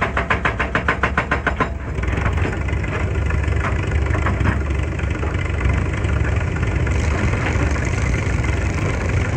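Excavator's diesel engine running steadily with a deep drone. For the first two seconds a rapid, even rattle of about eight strokes a second runs over it, then stops.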